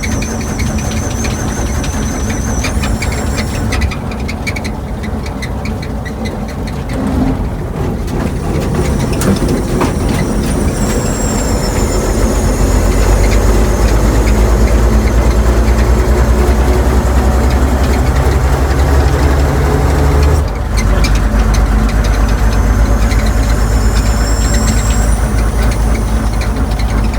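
1935 Chevrolet half-ton pickup's six-cylinder engine running steadily, getting louder about twelve seconds in, with a brief dip about twenty seconds in.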